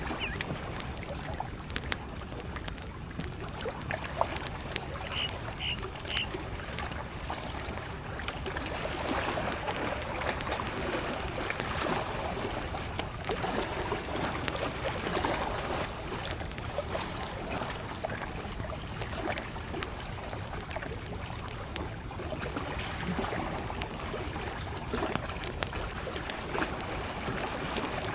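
Small waves lapping at a lakeshore, with a wood campfire crackling in frequent sharp pops and snaps throughout. A distant bird gives three short high notes about five seconds in.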